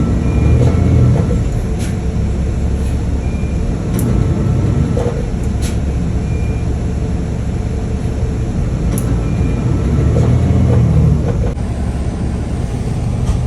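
Motor vehicle running: a loud, steady low rumble with scattered light clicks and rattles, and a small drop in level near the end.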